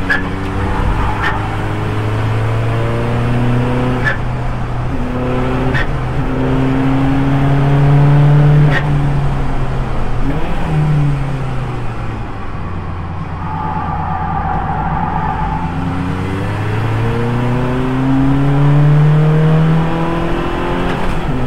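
Audi TT race car's 2.0 TDI diesel engine pulling hard on track. Its pitch climbs steadily over several seconds at a time, falls steeply about ten seconds in as the car slows, then climbs again. A few sharp knocks come through along the way.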